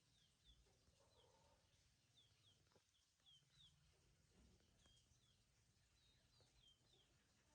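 Faint high chirps from small birds, each short and falling in pitch, scattered irregularly about every half second, over a faint low rumble.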